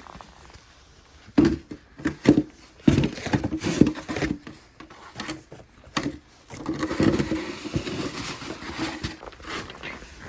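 Snow being cleared with a shovel: a run of irregular scrapes and knocks, then a longer scrape about two-thirds of the way in.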